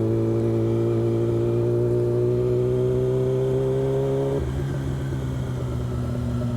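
Motorcycle engine pulling in gear, its pitch rising steadily. About four and a half seconds in, the throttle closes and the pitch drops, then holds steady.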